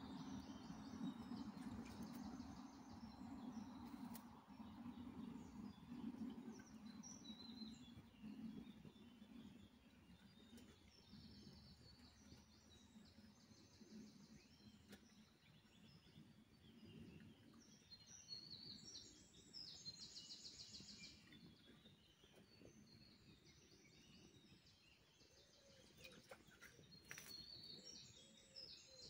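Faint songbird calls in a forest: short, repeated high trills that come and go every few seconds, over a low, dull background noise that fades away during the first half.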